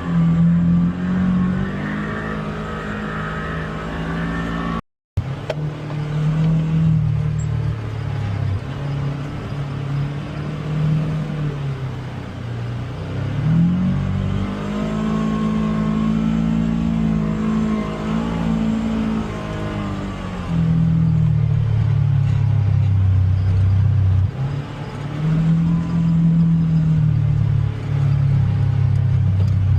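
Polaris Xpedition UTV engine running under varying throttle on a trail, its note rising and falling, climbing to a higher pitch for several seconds mid-way and running louder in the latter part. The sound drops out briefly about five seconds in.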